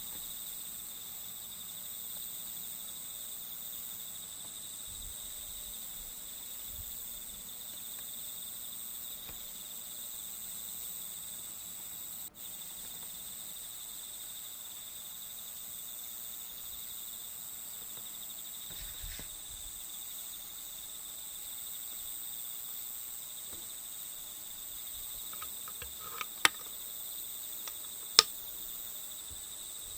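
Steady chorus of crickets or similar insects, a continuous high-pitched trill. Near the end come a couple of sharp clicks, louder than the chorus.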